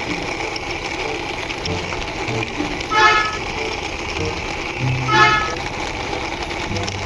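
A bus horn sounds two short toots about two seconds apart over a steady background hum.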